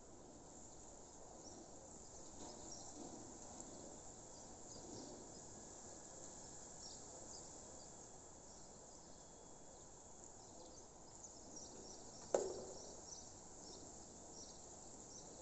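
Faint outdoor nature ambience: a steady hiss with many short, high chirps of birds and insects scattered throughout, and one sudden sharp knock about twelve seconds in.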